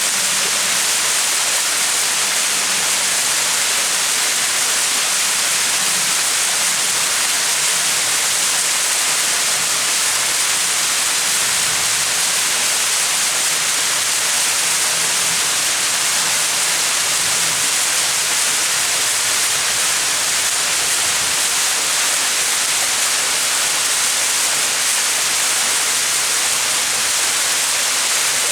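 Small mountain waterfall, water splashing down in a steady, even rush with a hissing top.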